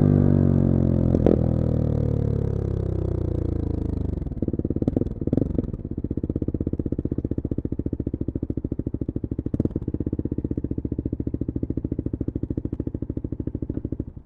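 Bullit Hero 250's single-cylinder four-stroke engine winding down as the motorcycle slows, revs falling steadily over the first few seconds with a few clicks, then settling into an even, pulsing idle. The engine is switched off and stops suddenly at the very end.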